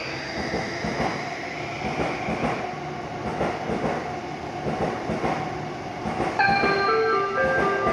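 Electric commuter train standing at a station platform with its doors open: a steady hum and station noise, with a high tone fading away over the first couple of seconds. About six seconds in, a platform departure melody starts, a short chime tune of clear steady notes.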